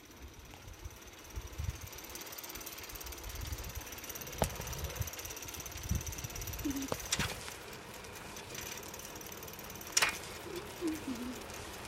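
An old bicycle being ridden along a forest track, rattling, with three sharp clicks over bumps about halfway in, past the middle and near the end. A gusty low rumble of wind on the microphone runs underneath.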